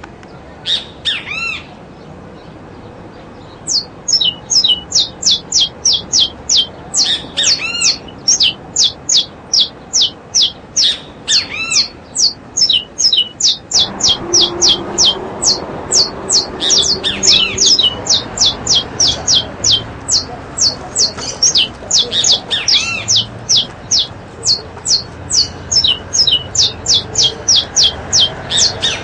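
Birds calling in quick, repeated, sharp high chirps, about two to three a second, with an occasional louder, lower squawk among them. A general background hubbub rises about halfway through.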